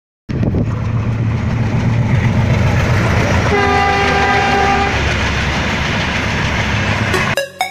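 Passenger train coaches passing close by with a steady rumbling running noise; a train horn sounds once, for about a second and a half, midway through. Electronic dance music with a steady beat cuts in near the end.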